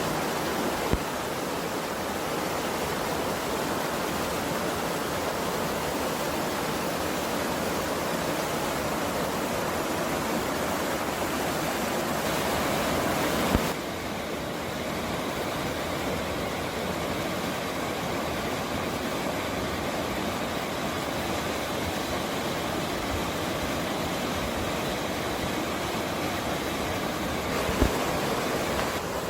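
Steady rushing of a mountain stream, an even wash of water noise. About halfway through the sound changes abruptly and drops a little in level, and there are a couple of faint clicks.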